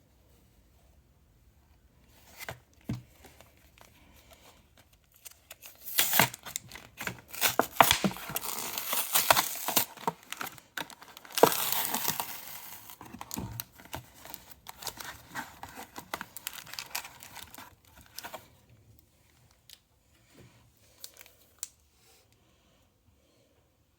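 Plastic blister packaging and its cardboard backing being torn and pried open by hand, crinkling and crackling. The tearing is densest and loudest in the middle, then thins to occasional crinkles of handling near the end.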